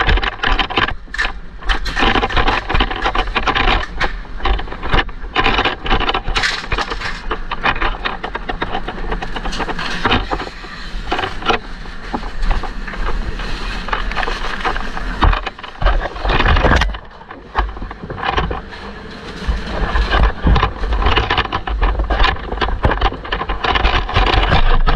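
A group of people shouting and screaming excitedly over a constant low rumble, with many sudden noisy bursts.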